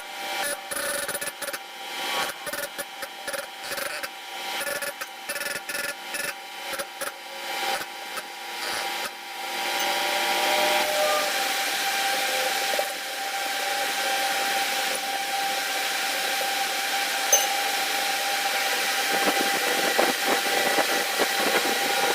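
A power tool's motor started and stopped in short bursts for about ten seconds, then running steadily with a constant whine.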